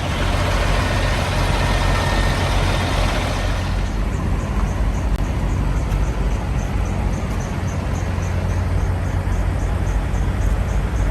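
Idling semi-truck diesel engines, a steady low rumble. A rushing noise fills the first few seconds, and a faint, quick ticking of about three per second follows.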